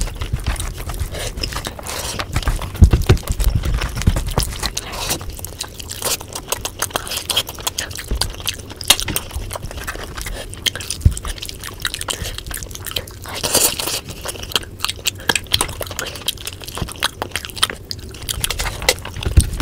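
Close-miked eating of chicken biryani by hand: chewing and biting on chicken and rice, with many short clicks and crackles and a brief louder crackle about two-thirds of the way in.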